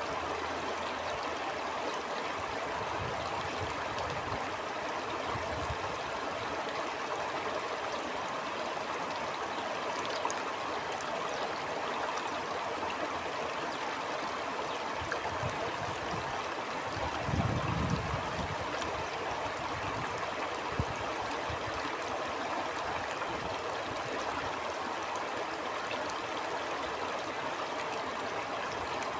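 A stream flowing steadily, with several brief low rumbles of wind, the strongest a little past the middle.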